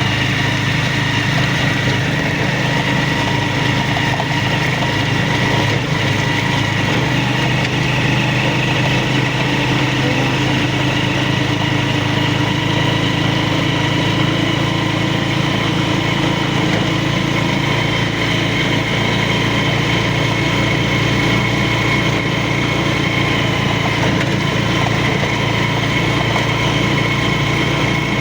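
A vehicle engine running steadily: a constant hum with a high whine, with no change in speed.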